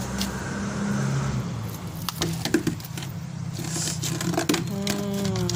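Scattered scrapes and knocks of hands digging sweet potatoes out of garden soil, over a steady low hum, with a short falling tone near the end.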